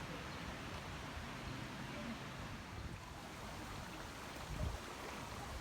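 Steady rush of flowing water, with a brief low gust of wind on the microphone about four and a half seconds in.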